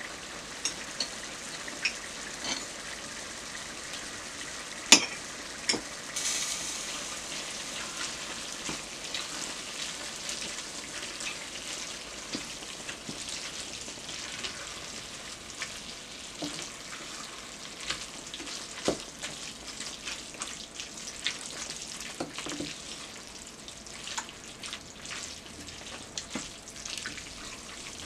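Shredded cabbage frying in a pot with a steady sizzle, while a wooden spoon stirs in tomato paste, scraping and clicking against the pot. One sharp knock comes about five seconds in, and the sizzle grows louder about a second later.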